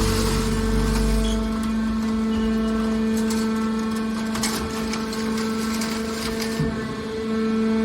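Hydraulic scrap copper baler running: a steady machine hum, with a heavy low rumble that dies away about two seconds in and scattered clicks and crackles in the middle.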